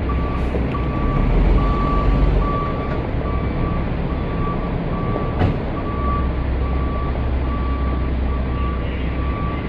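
Heavy vehicle's reversing alarm beeping at an even pace, about three beeps every two seconds, over its diesel engine running steadily. A single sharp knock about five and a half seconds in.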